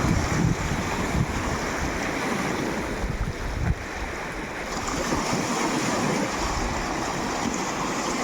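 Sea waves washing on the shore, a steady rush, with wind buffeting the microphone in gusts during the first few seconds.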